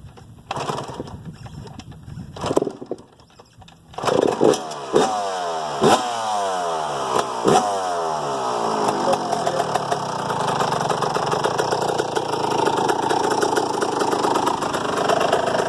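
Yamaha YZ125 two-stroke single-cylinder dirt bike engine being kicked over and catching about four seconds in. It is revved in several blips, then settles to a steadier run, the engine now starting after its carburetor was cleaned and the float and air-fuel mixture screw adjusted.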